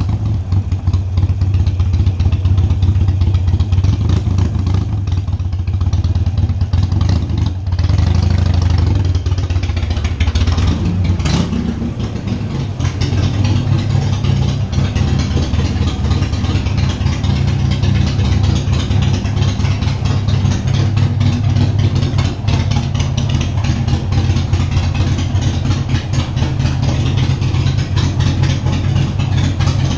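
Cruiser motorcycle engine running at idle. The note shifts briefly about ten seconds in, then settles into a steady idle.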